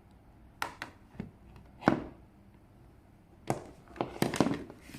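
A series of sharp knocks and clacks from the parts of a new electric kettle and its packaging being handled and set down. The loudest comes about two seconds in, with a quick cluster near the end.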